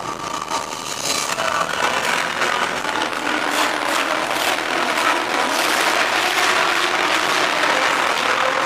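A car engine running, its pitch climbing a little near the middle, over the steady noise of a crowded show hall.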